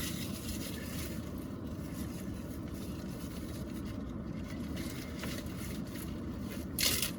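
Car engine running steadily, a low rumble heard from inside the cabin, with a brief rustle near the end.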